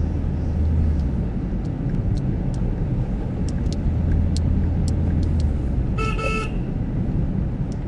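Car on the move, with a steady low rumble of engine and road and scattered light ticks. A car horn gives one short toot about six seconds in.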